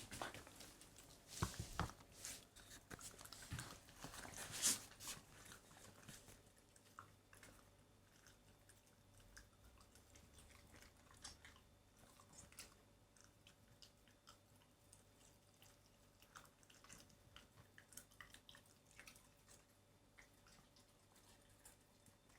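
A Shiba Inu chewing pieces of cooked chicken breast: a run of short wet clicks and crunches, louder and busier in the first five seconds, then fainter and more spaced out.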